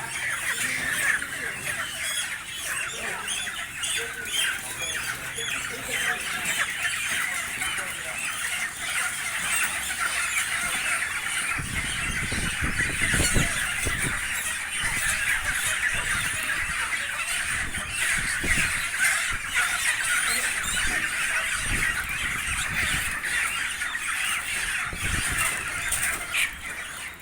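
A large crowd of broiler chickens squawking and screeching without pause, a dense overlapping mass of calls. Dull thumps and knocking come in about halfway through and recur later on.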